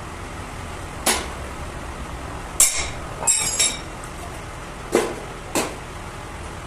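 Metal tools knocking and clinking on metal during cylinder head work: about five or six sharp strikes at uneven intervals, a couple of them ringing briefly.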